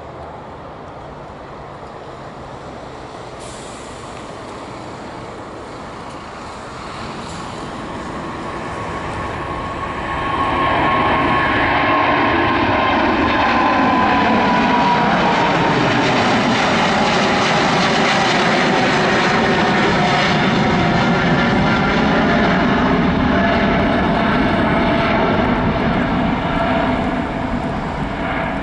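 Twin GE90 jet engines of a Boeing 777-200 passing close by, growing louder over the first ten seconds, then a loud steady jet noise with a whine that slides down in pitch as the aircraft goes past.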